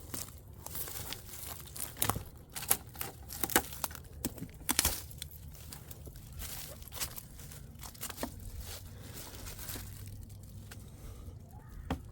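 Footsteps crunching and crackling on dry ground, a run of sharp irregular crunches, loudest a couple of seconds in, over a low steady rumble.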